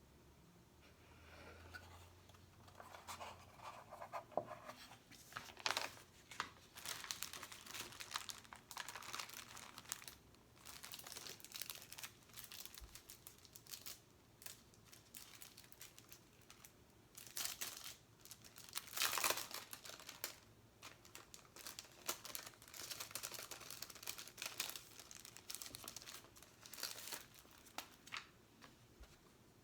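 Close-up crinkling of sticker sheets and stickers peeling from their backing, in irregular crackly bursts, a few of them louder.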